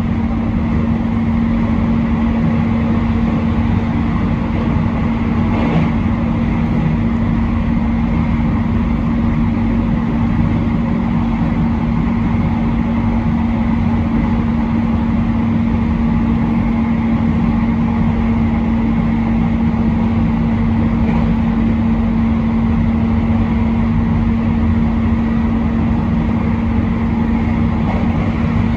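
Train running along the line, heard from the driver's cab: a steady rumble with a constant low hum and a few faint clicks.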